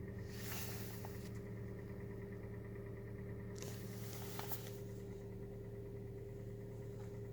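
Hyundai Solaris 1.4 L four-cylinder petrol engine idling cold at about 1100 rpm, with a steady knocking in its running. The owner suspects short-skirted pistons and takes the knock to be probably normal for modern engines.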